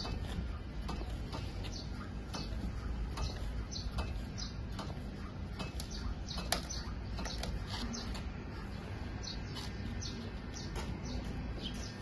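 Small birds chirping: many short, irregular chirps that fall in pitch, over a steady low background rumble.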